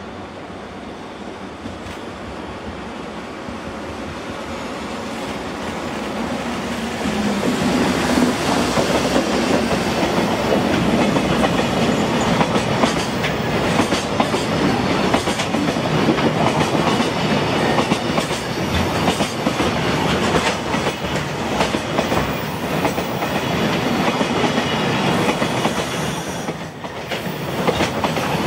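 Electric-hauled container freight train approaching and running past close by. The sound grows over the first several seconds, then holds loud with the rumble and clickety-clack of the wagons' wheels over the rail joints as the container wagons go by.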